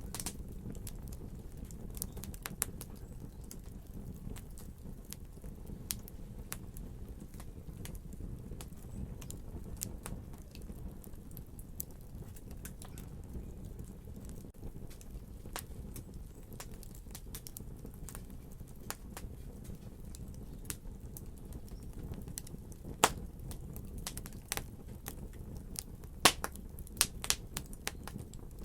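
Wood fire crackling in a fireplace: irregular sharp pops and snaps over a low, steady rumble of the flames, with the pops coming more often and louder in the last few seconds.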